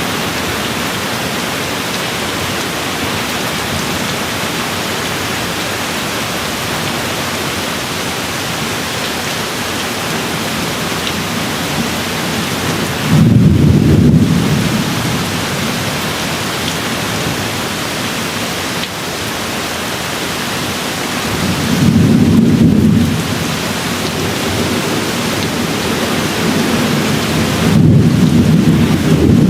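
Steady rain falling, with three rolls of thunder rumbling through it: about thirteen seconds in, about twenty-two seconds in, and near the end.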